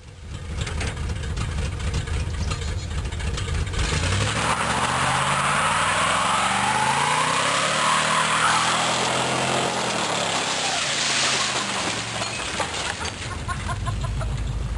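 Truck engine revving hard while its tires spin on gravel in a burnout. The engine climbs in pitch from about four seconds in, peaks about halfway through, then falls back over the next few seconds, over a steady hiss of spinning tires and flung gravel.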